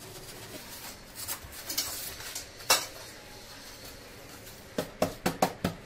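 Hard objects clinking and tapping: a few separate clicks, one louder than the rest, then a quick run of about six taps near the end.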